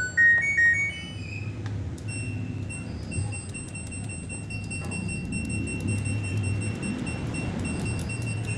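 Front-loading washing machine's electronic control panel beeping: a quick rising run of short beep notes, then a steady high tone with fast, even ticking, over a low hum.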